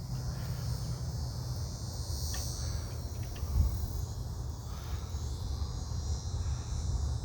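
Steady high-pitched chorus of insects droning without a break, over a constant low rumble on the microphone.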